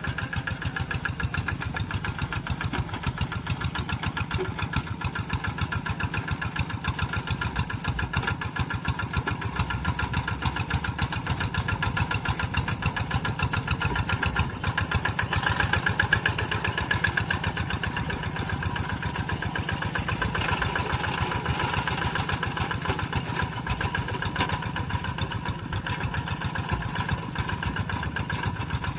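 Tractor engine running steadily with an even, rapid firing beat, swelling slightly in the middle.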